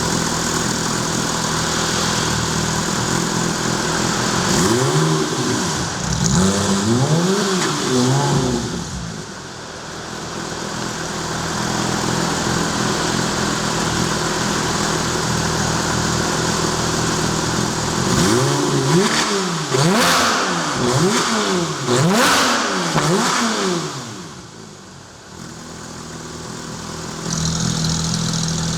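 Porsche 991 GT3 flat-six through an IPE Innotech F1 exhaust, idling and then blipped in two sets of quick free revs: about three a few seconds in, and about five more in quick succession past the middle, each set falling back to idle.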